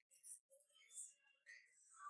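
Near silence with faint, muffled voices in the background.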